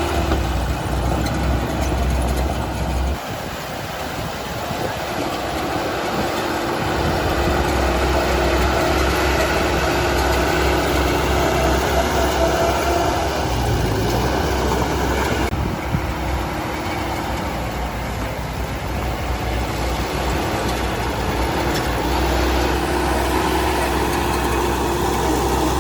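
Heavy earthmoving machine's diesel engine running steadily; its low note drops away for a few seconds early on, then comes back.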